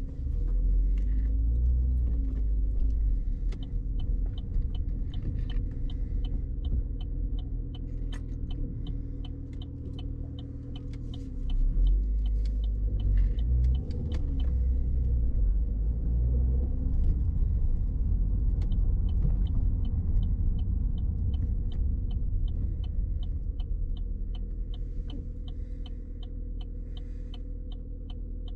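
Car driving, heard from inside the cabin: a continuous low engine and road rumble that grows louder about a third of the way in. A sharp, regular ticking about once every half second runs throughout.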